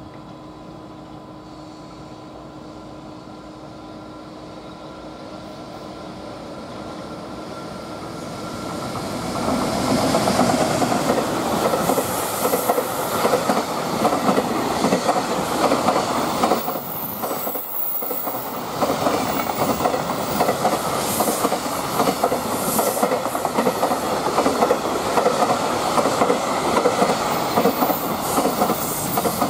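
JR Freight EF210 electric locomotive approaching with a container freight train, then the container wagons rolling past close by, the wheels running over the rails. The sound builds for about ten seconds as the train nears, then stays loud and steady as the wagons go by.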